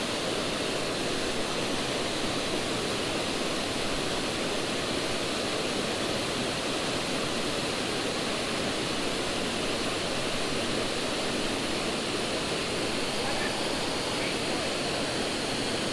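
Creek waterfall: a steady, unbroken rush of falling water.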